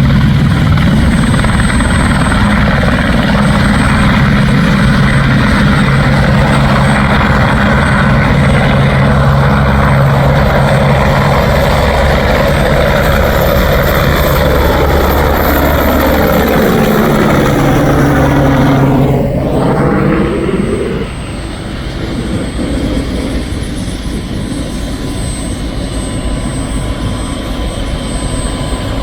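Helicopter running loud and close with a steady rotor and engine sound, then passing by with its pitch falling over several seconds about two-thirds of the way through, after which it is quieter as it moves away.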